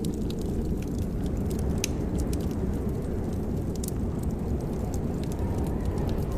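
Fireplace fire crackling: irregular sharp pops and ticks over a steady low rumble.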